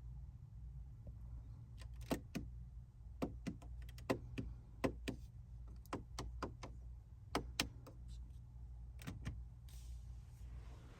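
A run of sharp clicks and knocks, about fifteen over several seconds and irregularly spaced, over a steady low hum.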